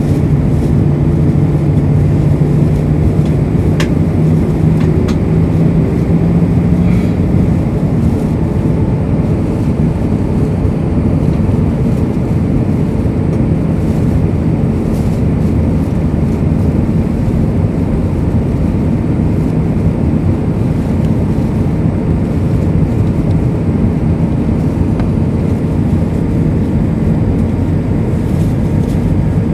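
Airbus A320 cabin noise in flight: a steady roar of airflow and jet engines. A strong low engine hum eases away about seven seconds in.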